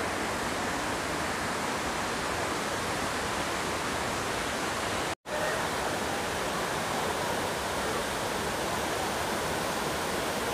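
Steady rushing of a waterfall, breaking off for an instant about five seconds in.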